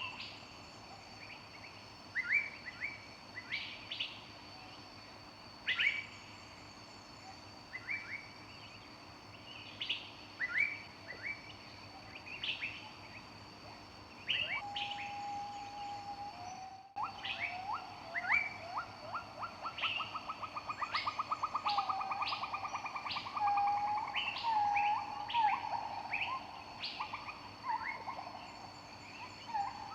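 Several songbirds chirping and calling in short, sharp notes, with a fast trill of rapid repeated notes in the second half. A faint steady high tone runs underneath, and the sound briefly cuts out a little past halfway.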